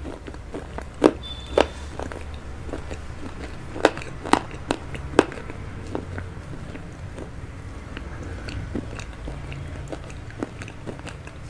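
Close-miked mouth sounds of a person chewing veg chowmein: wet smacks and clicks, several in the first half and fewer after about five seconds, over a low steady hum.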